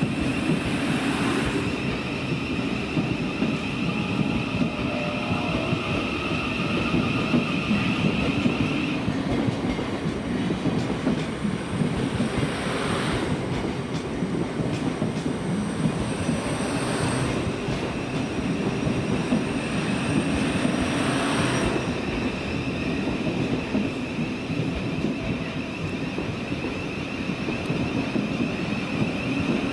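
Train running on the line below, a steady rumble of wheels on rail with a high steady whine that stops about a third of the way through and comes back near three-quarters through.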